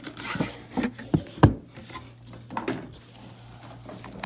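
A sealed trading-card box being handled and cut open: scattered rustling and small clicks of cardboard and plastic wrap, with one sharp knock about a second and a half in.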